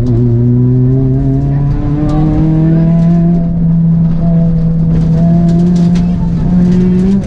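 Peugeot 206 RC Group A rally car's four-cylinder petrol engine under way, heard from inside the stripped cabin. Its pitch climbs over the first couple of seconds, holds steady through the middle, and rises again near the end.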